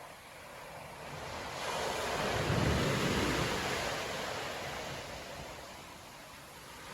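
Storm waves breaking on a beach: one wave builds about a second and a half in, crashes with a heavy low rumble around the middle, and washes out, fading near the end as the next one starts to rise.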